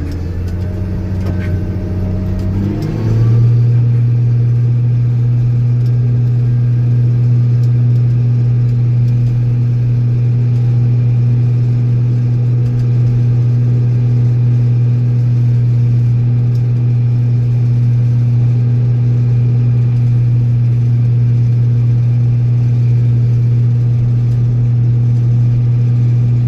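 Tractor engine running steadily under load while pushing snow. It revs up about three seconds in, then holds a steady higher speed.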